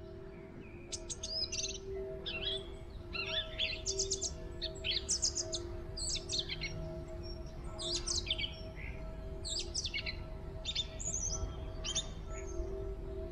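Small songbirds chirping and calling in a winter woodland: many short, quick chirps throughout, with a steady low drone underneath.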